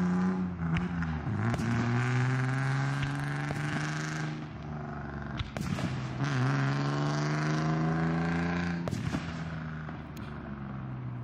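Distant fireworks shells bursting, a handful of separate bangs a few seconds apart, over the steady hum of a running vehicle engine whose pitch dips and then slowly climbs twice.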